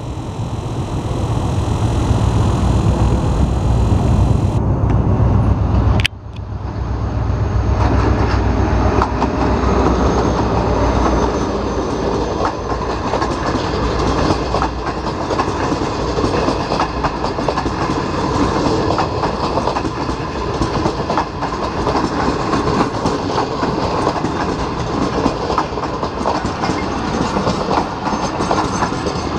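HGMU-30 diesel-electric locomotive hauling a train past, with a deep engine drone for the first few seconds. After an abrupt break about six seconds in, wheels clatter steadily over the rail joints as the carriages roll by.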